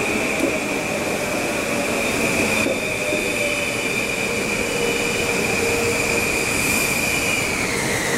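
Metro-North M8 electric multiple-unit train rolling along the platform: wheels rumbling under a steady high whine that drops a little in pitch near the end.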